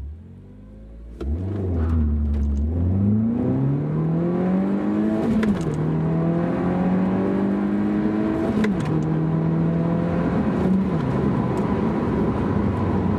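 The turbocharged 1.6-litre inline-four of a 2009 MINI Cooper S accelerating hard from a launch. The engine note rises steadily through first gear and drops at an upshift about five and a half seconds in. It rises again through second and drops at a second upshift near nine seconds, then holds a steady drone.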